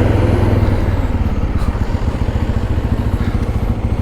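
Motorcycle engine running with a steady low throb.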